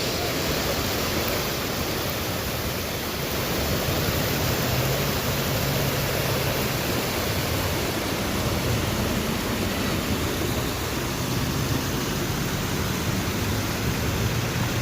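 Heavy thunderstorm rain pouring down: a dense, steady hiss that starts and stops abruptly at video cuts.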